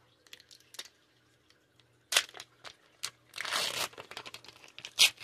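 A foil trading-card booster pack being torn open and crinkled. There are faint rustles at first, a sharp crinkle about two seconds in, a short tearing rip a little past the middle, and another loud crinkle near the end.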